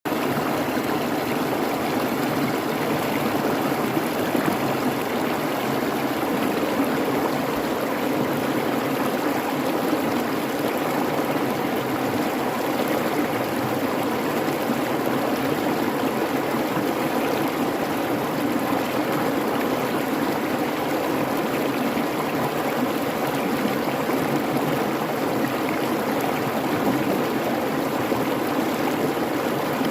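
A creek babbling over its bed: steady, unbroken rushing and gurgling water.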